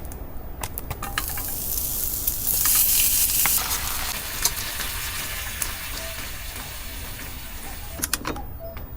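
Food sizzling in a hot pan. The hiss swells about two seconds in and eases off toward the end, with a few sharp ticks and pops.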